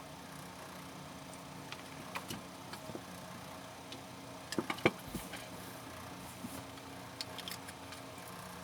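Scattered light clicks and taps, with a quick cluster of sharper clicks about five seconds in, over a steady low hum.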